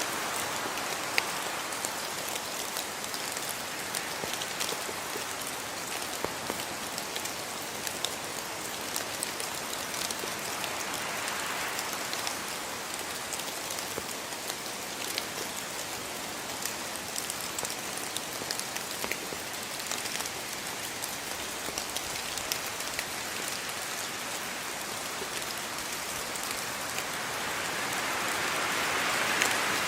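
Steady rain falling, a dense even hiss with many small sharp drop ticks, swelling slightly near the end.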